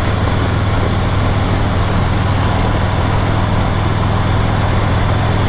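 Harley-Davidson Road Glide Special V-twin engine running steadily, a constant low hum under a continuous haze of wind and road noise.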